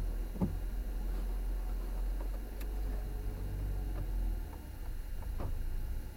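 Steady low rumble of a moving vehicle heard from inside the cabin, with a few light knocks and rattles.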